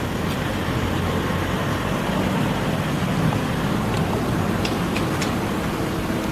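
Steady background noise with a low rumble, with a few faint, short high ticks about four to five seconds in.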